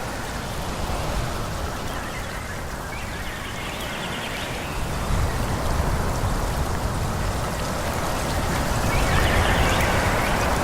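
Wind blowing through forest trees: a steady rushing noise over a low rumble, swelling in gusts about halfway through and again near the end.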